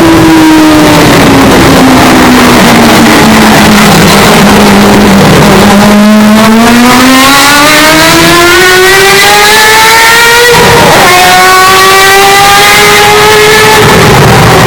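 Hyundai Elantra N's turbocharged 2.0-litre four-cylinder engine and exhaust: revs falling off for a few seconds, then a hard acceleration with rising pitch. An upshift about ten seconds in drops the revs sharply before they climb again, and the revs fall away near the end. The audio is boosted to the point of distortion.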